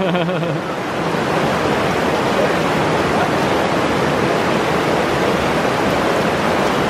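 River water rushing steadily through a rapid.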